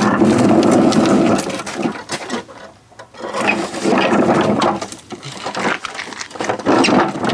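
Hands working on a lawn mower make clattering, rattling metal handling noise: a dense stretch first, then several separate bursts.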